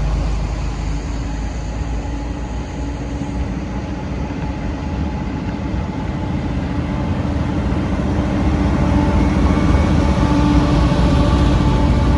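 Diesel freight train passing: a steady low engine rumble with held tones in it, growing louder over the second half.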